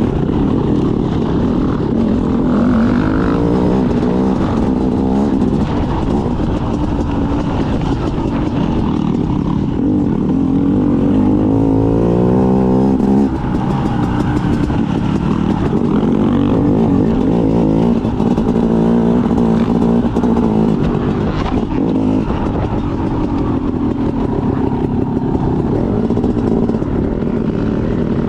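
Trail motorbike engine being ridden around a dirt track, its revs rising and falling again and again. About halfway through there is one long climb in revs that cuts off sharply.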